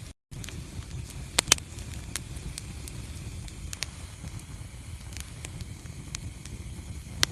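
Wood fire burning in a fireplace: a steady low rumble with scattered crackles, two sharp pops about a second and a half in and another near the end. The sound cuts out for a split second at the very start.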